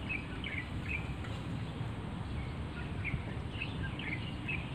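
Small birds chirping in short, repeated calls, with a pause about a second and a half in, over a steady low rumble.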